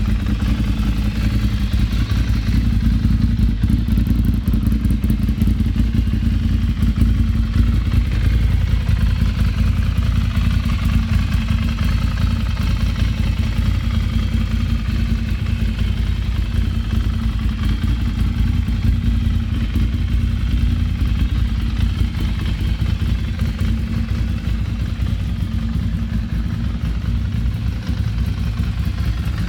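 Ducati Monster 696's air-cooled 696 cc L-twin engine idling steadily, just after being started.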